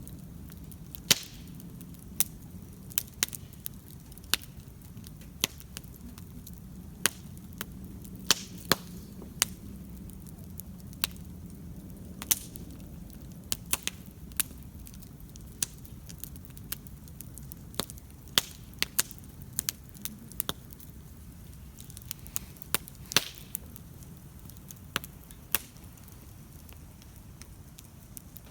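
Wood campfire burning, with irregular sharp crackles and pops, about one or two a second, over a steady low rumble of the flames.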